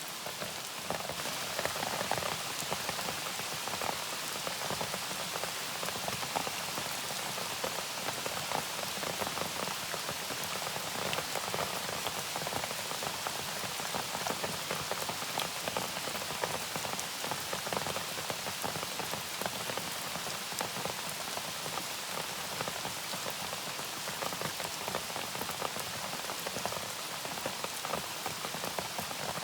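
Steady rain falling, a dense even patter of many small drops on a surface.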